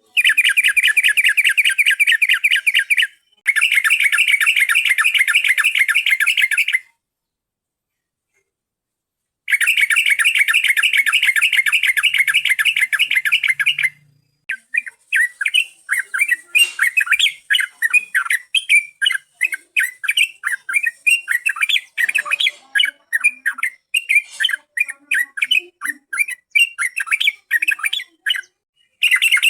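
Yellow-vented bulbul (trucukan) lure recording: three blocks of rapid, fast-repeated chattering calls, each about three to four seconds long and cut off abruptly, then from about halfway a long run of separate call notes, with the fast chatter returning at the very end.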